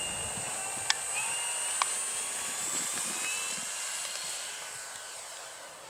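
Radio-controlled model aeroplane's motor whining in flight, its pitch shifting slightly and fading toward the end. Two sharp clicks about a second apart near the start.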